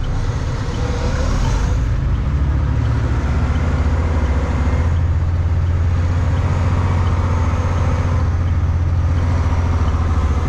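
Semi truck's diesel engine running: a steady deep rumble that grows a little louder about a second and a half in.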